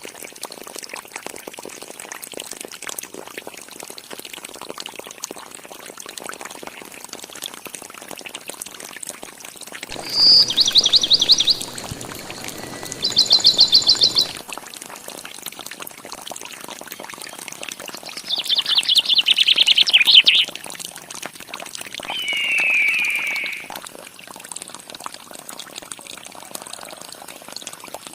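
Water pouring steadily, with loud bursts of bird chirping three times and a shorter, lower bird call near the end.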